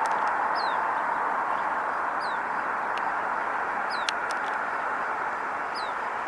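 A small bird repeating a short, high, down-slurred chirp about every second and a half to two seconds, over a steady background hiss.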